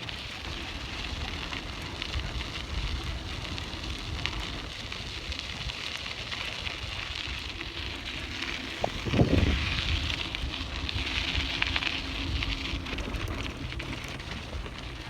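Bike tyres rolling and crackling over a dirt and gravel road, with wind rumbling on the microphone. A louder knock comes about nine seconds in.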